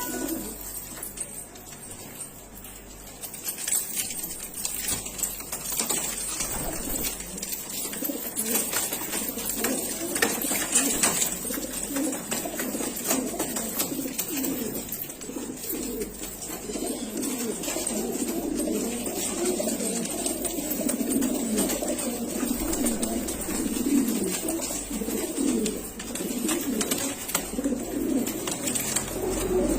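Several domestic pigeons cooing, their calls overlapping into a continuous burble that thickens after the first few seconds.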